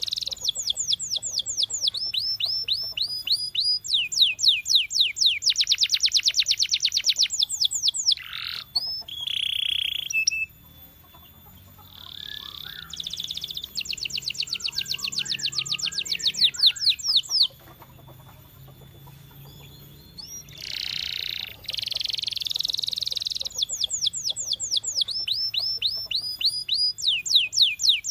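Domestic canary singing a long song made of fast trills, each phrase a run of identical notes repeated at a steady speed before switching to another note type. The song breaks off twice for a few seconds.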